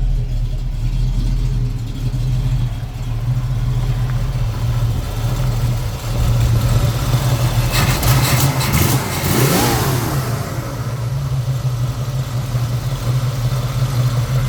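1965 Ford Mustang's 289 V8, fitted with a 4-barrel carburetor, headers and dual exhaust, idling steadily. About eight seconds in it is revved once, the pitch rising and falling back to idle.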